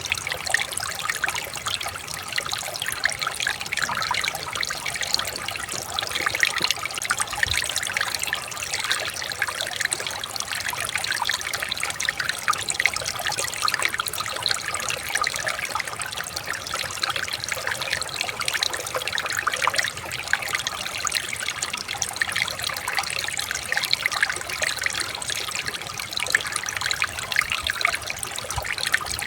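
Shallow stream water trickling and splashing over stones, a steady bright babble of many small splashes.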